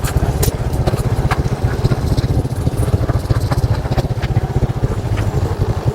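Small motorcycle engine running steadily while riding, a fast low pulsing with scattered sharp clicks over it.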